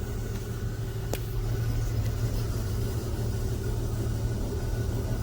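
Steady low rumble of a car idling, heard from inside the cabin in an automatic car wash bay, with a single sharp click about a second in.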